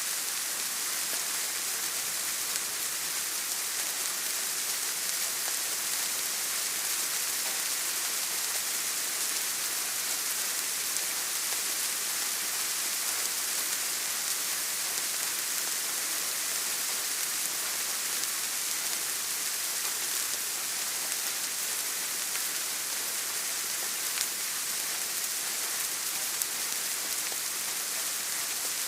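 Steady rain falling: an even, bright hiss with a few faint single drop ticks.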